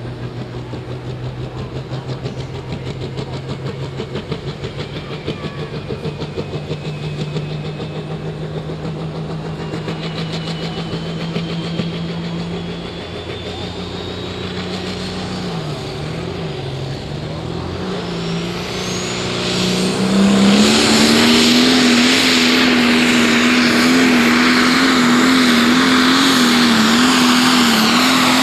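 Pro Stock pulling tractor's diesel engine held at raised revs, with a whine climbing steadily in pitch. About 20 seconds in, it goes to full throttle with a sharp jump in revs and loudness, and holds high revs as the pull gets under way.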